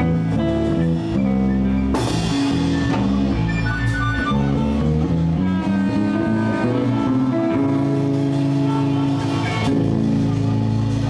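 Live blues band playing without vocals: electric guitar over bass guitar and drum kit, with cymbal crashes about two and four seconds in.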